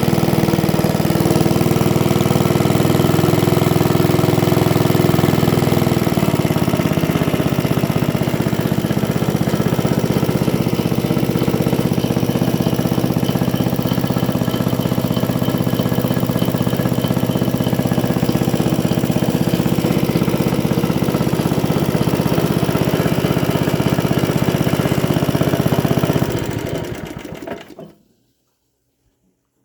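Small Briggs & Stratton W series single-cylinder engine running steadily while driving a Myers Bulldozer piston water pump. About 26 seconds in it is shut off and runs down to silence over about two seconds.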